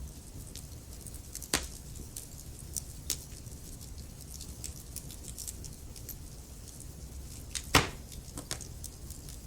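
Wood fire burning in a fireplace: logs crackling with scattered sharp pops over a steady low rumble of the flames, the loudest pops about a second and a half in and just before eight seconds in.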